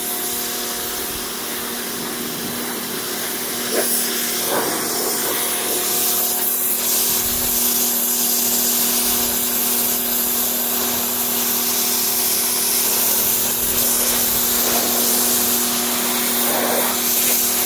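Electric pressure washer running steadily, its motor and pump giving a constant hum under the hiss of the water jet blasting into car carpet. A few brief sharper splashes come through around four seconds in and near the end.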